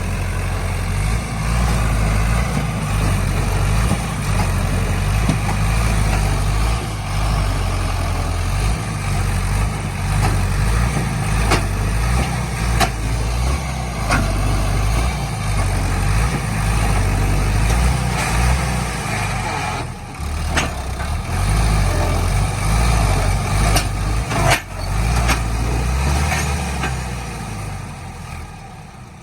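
Sonalika tractor's diesel engine running with a steady, deep low rumble, broken by a few sharp knocks. It gets quieter near the end.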